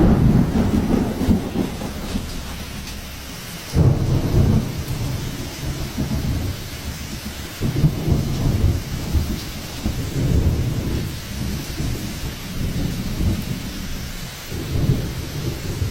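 Hurricane storm: heavy rain and wind, with loud low rumbling surges that come and go every few seconds.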